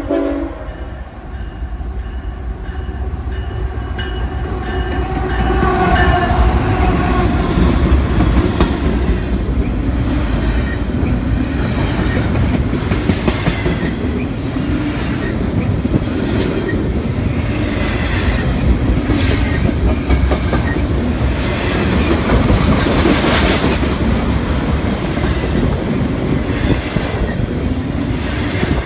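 CSX double-stack freight train passing close by: a heavy rumble that builds over the first several seconds, then runs steadily with the clickety-clack of wheels over rail joints. A thin high wheel squeal comes and goes around the middle.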